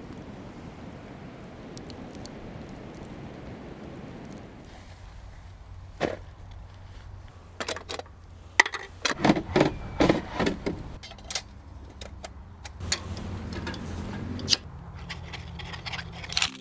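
Steady outdoor noise, then a run of sharp clinks, knocks and scrapes from objects being handled, densest about halfway through.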